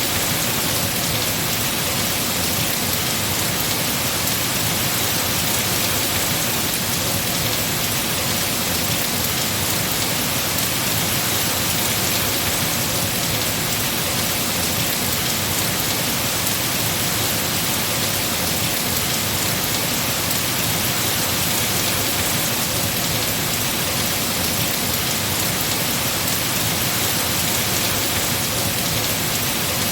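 Heavy rain falling steadily on trees and foliage, a dense, even hiss with no breaks.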